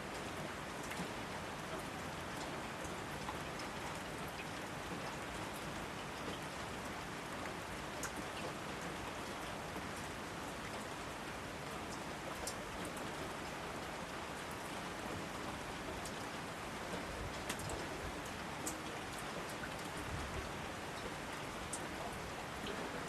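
Steady rainfall: an even hiss with scattered individual drops ticking.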